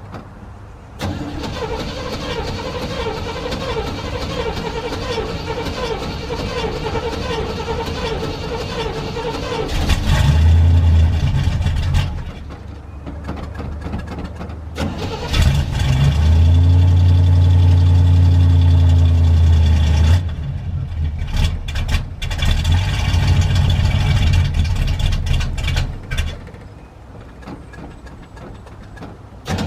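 A 1977 GMC K25 pickup's engine starting after winter storage, heard at the exhaust. The start-up begins about a second in with a steady stretch of engine sound. The engine gets louder at about ten seconds and again from about fifteen to twenty seconds as it is revved, then settles to a quieter idle near the end.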